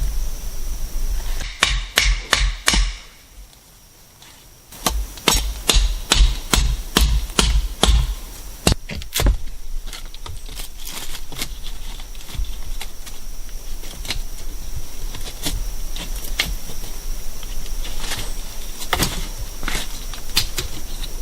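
Wood being struck with a tool: irregular runs of sharp knocks, thickest in the first half and sparser later, over a steady high-pitched hum.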